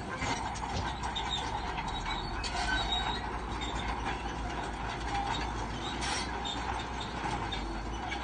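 Shantui crawler bulldozer working, its engine running steadily under scattered squeaks and clanks from the steel tracks.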